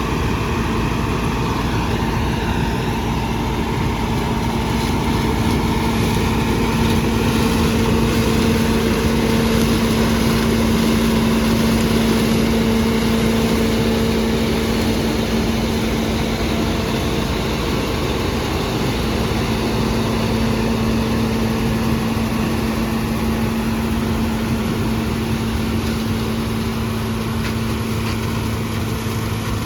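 John Deere 6600 combine running steadily, its engine and machinery making a constant hum with two steady tones over an even rumble.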